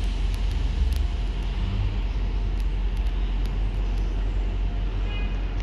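Diesel multiple unit coming slowly into the station, a steady low engine rumble.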